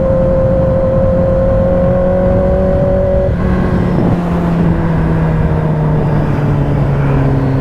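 Kawasaki ZX-10R's inline-four engine running while the bike is ridden. Its note climbs slowly for about three seconds, then drops and holds lower.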